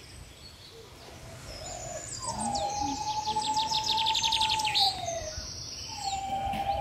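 Birds chirping, with a quick rapid trill in the middle. Under them a long steady tone slides up at its start and down at its end, then starts again near the end.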